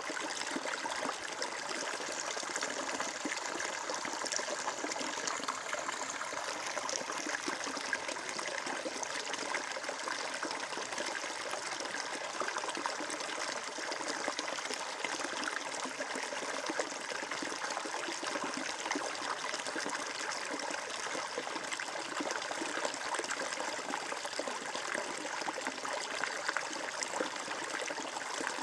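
Flowing water trickling steadily, an even, unbroken rush without pauses.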